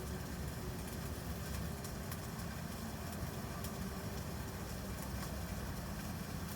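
Steady low mechanical rumble from a running motor, with faint scattered ticks.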